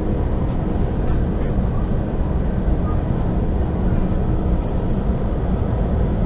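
Steady low rumble and rush of an MTR IKK (SP1900) electric multiple-unit train running at speed, heard from inside the carriage, with a few faint clicks.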